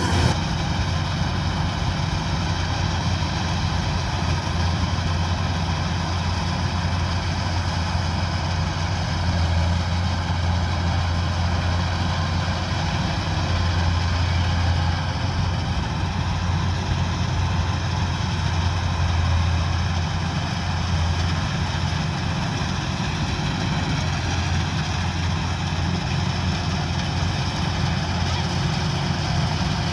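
Kubota DC-105X combine harvester's diesel engine running steadily at an even speed, a constant low drone.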